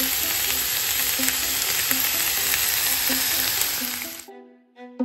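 Chicken strips and sliced peppers, zucchini, onion and carrot sizzling in a frying pan, a loud, steady hiss with fine crackles. The sizzle cuts off suddenly about four seconds in, and plucked-string music takes over.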